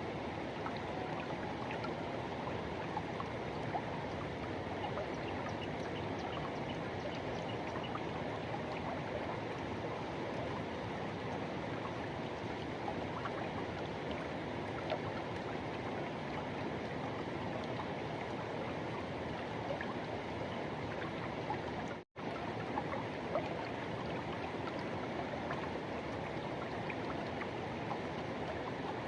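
Forest river rushing and flowing steadily over rocks, a dense even hiss of running water. The sound cuts out for an instant about three-quarters of the way through.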